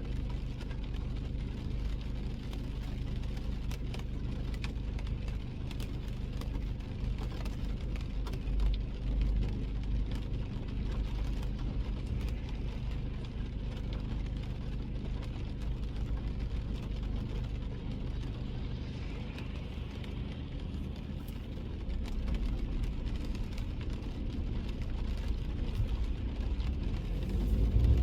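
A car driving in the rain: a steady low rumble of engine and tyres, with scattered faint ticks of rain on the car and a brief swell about eight seconds in.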